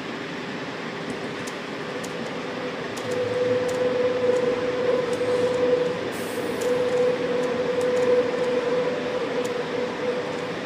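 Electric train of the MOB Golden Pass line running along the track, heard from inside its lead car: a steady running rumble. A whine comes up about three seconds in, holds until near the end, and the whole sound grows louder meanwhile.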